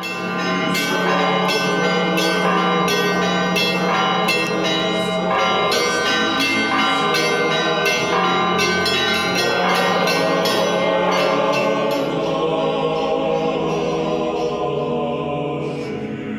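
Church bells ringing a quick peal, struck about twice a second, then left to ring out and fade, with one last strike near the end.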